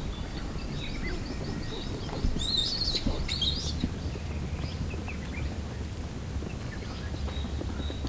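Birds calling: a run of short high chirps, then two brief, louder warbling calls about two and a half and three and a half seconds in, over a steady low rumble.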